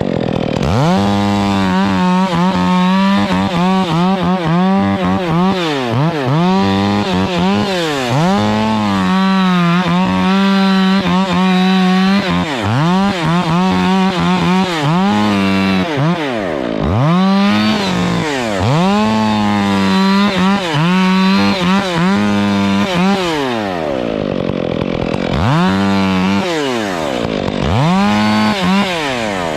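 Stihl chainsaw revved again and again, held at full speed for a second or two at a time and dropping back in pitch between, as it cuts Canary Island palm wood.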